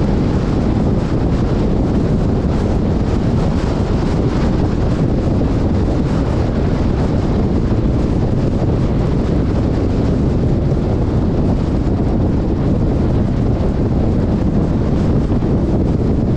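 Steady, loud wind buffeting on the microphone of a GoPro action camera, with the rumble of a moving vehicle under it.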